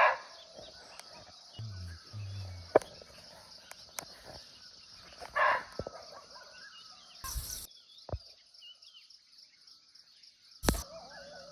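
Barking deer (muntjac) giving short, sharp single barks, one right at the start and another about five seconds later, over a steady high insect drone. A sharp knock sounds near the end.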